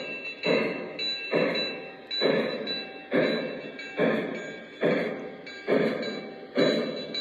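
Steam sound effects from an O scale model steam locomotive's onboard sound system: a slow, even chuffing, one exhaust beat about every second.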